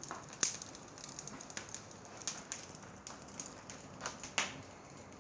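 Wood fire crackling in a natural stone fireplace: irregular sharp snaps and pops, a few louder ones about half a second in and just past four seconds.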